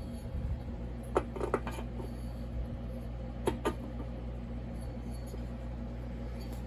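Light metallic clinks of small hardware and tools being handled on a workbench, a few about a second and a half in and two more around three and a half seconds, over a steady low hum.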